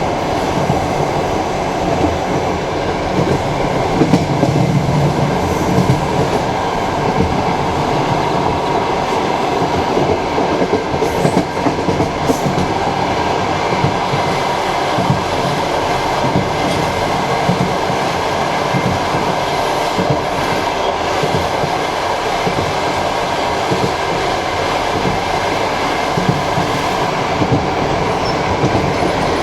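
Passenger train running on the rails, heard from inside the carriage: a steady wheel-and-rail rumble with the clatter of the wheels and occasional sharper knocks.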